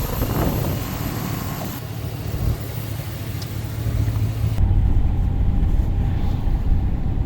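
A 2011 Chevy Express van running, heard from inside the cabin: a steady low engine hum under a broad rushing noise. The rushing noise drops away abruptly about two-thirds of the way through.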